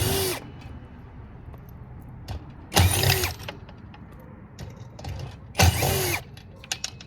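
Power drill driving out screws in three short bursts, each a quick spin-up and wind-down, with light clicks and clinks of parts in between.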